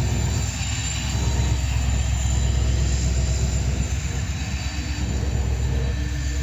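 Diesel locomotive running with a steady, deep engine drone.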